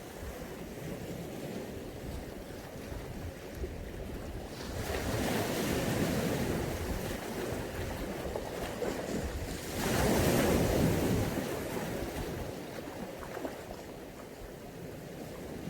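Mediterranean Sea waves washing onto the shore: a steady wash with two louder surges as waves break, about five seconds in and again about ten seconds in. Wind buffets the microphone as a low rumble.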